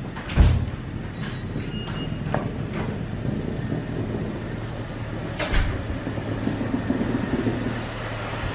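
A car engine running low and steady, with a heavy thump about half a second in and another about five and a half seconds in.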